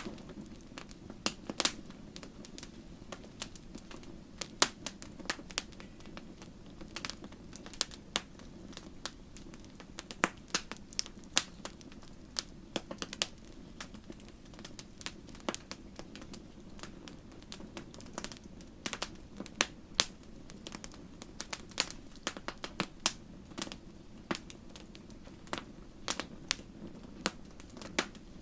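Wood campfire crackling: frequent irregular sharp pops and snaps over a steady low rush of the flames.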